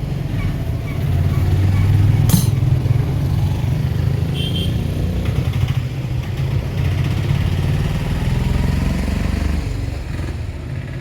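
Street traffic dominated by a motor vehicle engine, likely a motorcycle, running close by; it swells about a second in, peaks around two to three seconds, then eases. A sharp click is heard a little after two seconds.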